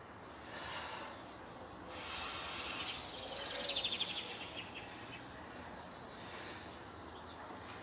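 Steady outdoor background noise, with a small bird's quick twittering trill about three seconds in.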